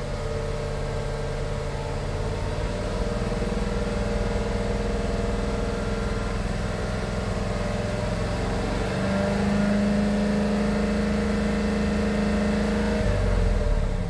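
Mercedes-Benz M278 twin-turbo V8 raised from idle and held at a steady higher speed. It steps up again and gets louder about halfway through, holds there, then falls back toward idle near the end. This is a normal-running engine with correct cam timing.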